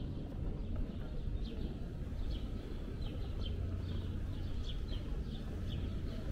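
Small birds chirping in a run of short, high notes, about two a second, over a steady low background rumble.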